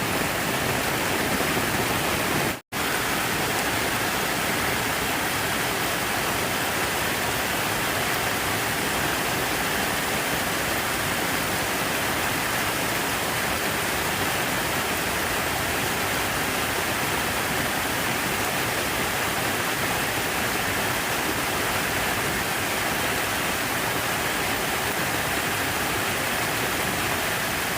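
Steady rush of falling water, an even hiss with no change, broken by a brief full cut-out about two and a half seconds in.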